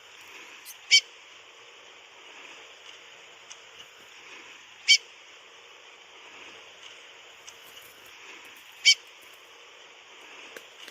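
Chestnut-bellied seed-finch (curió) giving a short, sharp call note three times, about four seconds apart, over a steady high hiss.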